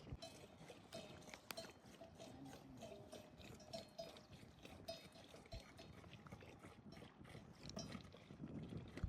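Faint, irregular clinking of livestock bells.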